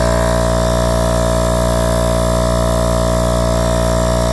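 Ridgid job-site air compressor running steadily as it pumps its tanks up toward about 150 psi, a sign that its newly replaced head gasket is now holding.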